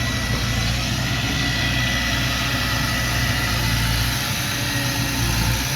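Diesel engine of heavy earthmoving equipment running steadily at a low, even speed, with a faint thin high whine above it.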